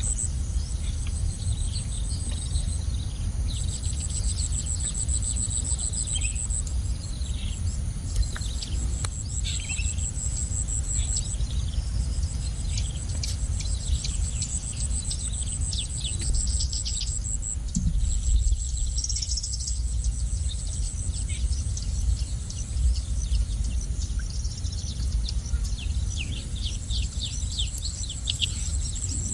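Small birds chirping in quick, short, downward-sweeping notes that come in clusters, over a high, rapidly pulsing insect trill that stops and starts, with a steady low rumble beneath.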